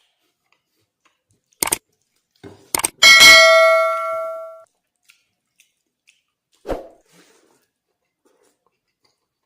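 A few sharp clicks, then one ringing metallic clang about three seconds in that dies away over about a second and a half, like a struck metal dish; a single dull knock follows a few seconds later.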